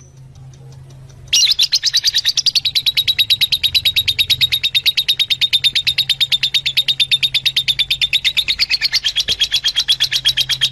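Fischer's lovebirds chirping: a fast, even series of high, shrill chirps that starts suddenly about a second and a half in, after a faint click.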